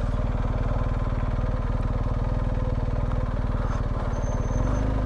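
BMW R1250GS boxer-twin engine running steadily at low revs, its firing pulses even, with a change in its note about four and a half seconds in.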